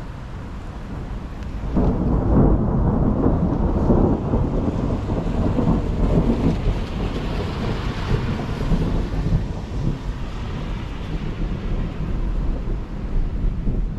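Thunder: a loud rolling rumble sets in sharply about two seconds in and slowly dies away over the following seconds, over steady rain.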